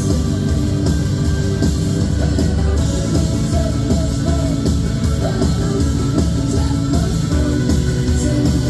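Live rock band playing, with electric guitar over bass and drum kit keeping a steady beat.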